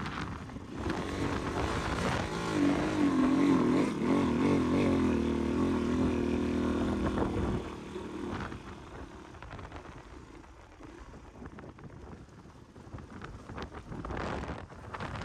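Dirt bike engine running with wavering revs, then shut off about seven and a half seconds in, leaving a quieter rushing noise.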